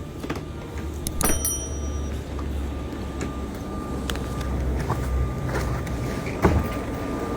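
Steady low engine rumble of a vehicle, with scattered clicks and a couple of sharp knocks, and a faint thin steady tone in the second half.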